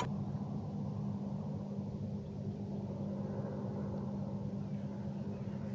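A steady low motor hum with an even pitch, unchanging throughout.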